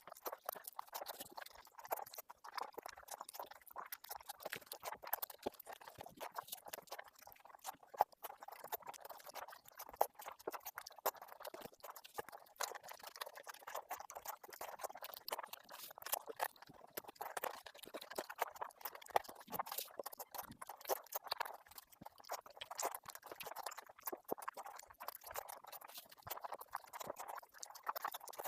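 Close-miked eating of fish curry and rice: wet chewing and lip-smacking, a dense run of small clicks and squelches.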